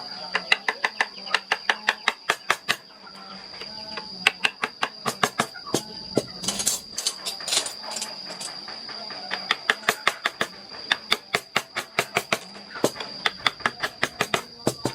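Mallet tapping a carving chisel into wood in quick runs of sharp taps, about five or six a second, with short pauses between runs. A steady high-pitched whine runs underneath.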